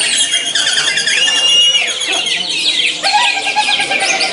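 Many caged songbirds singing at once at a songbird contest: a dense, loud mix of chirps, trills and whistles. It includes a held high whistle about a second in and a lower held note from about three seconds in.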